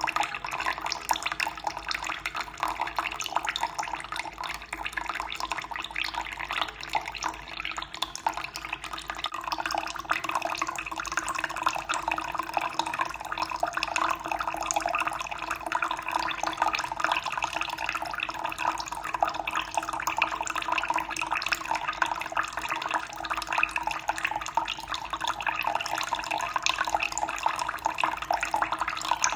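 Running water splashing and trickling steadily, a dense, unbroken patter of small splashes.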